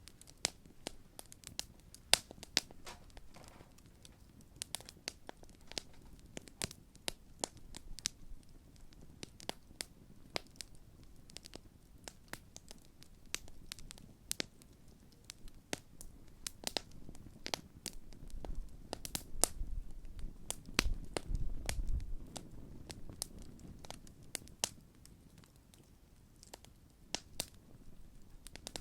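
Large open wood campfire burning, crackling with irregular sharp pops and snaps several times a second. A low rumble swells for a few seconds about two-thirds of the way through.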